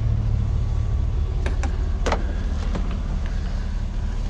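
Steady low rumble of an idling vehicle engine, with a few faint clicks and knocks in the middle.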